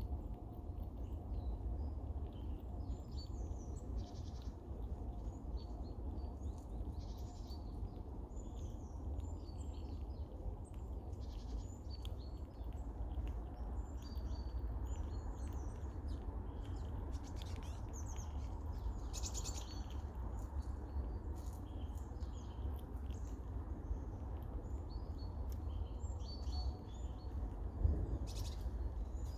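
Eurasian red squirrel giving short squeaking, chuckling calls again and again, a warning to other squirrels nearby to keep away from her food. A steady low rumble runs underneath.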